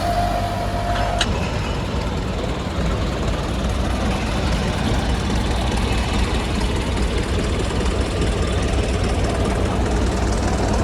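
Heavy quarry machinery running steadily with a deep engine drone. A thin whine stops with a click about a second in.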